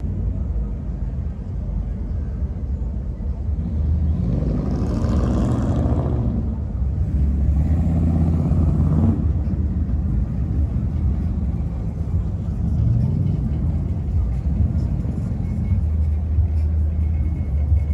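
Lowrider cars' engines running with a low, steady rumble, with a louder pass about four to nine seconds in, as of a car driving by. Music plays alongside.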